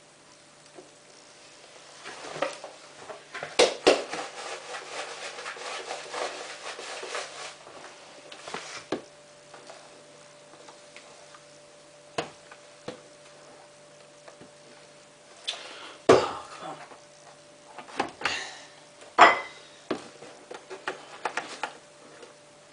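Handling of detergent and the washing machine's dispenser drawer: a dense rattle of small plastic clicks for several seconds, then scattered sharp knocks and clicks, over a faint steady hum.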